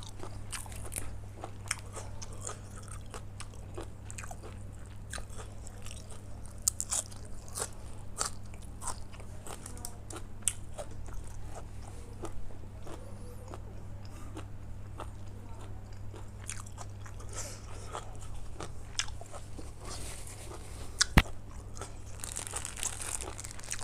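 A person biting and chewing crunchy food, with many small crunching clicks over a steady low hum. A single sharp knock stands out about 21 seconds in.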